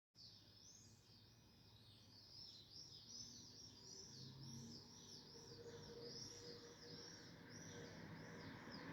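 A small bird calling faintly, a steady run of short, high, arching chirps about two or three a second that stops just before the end, over a faint low hum.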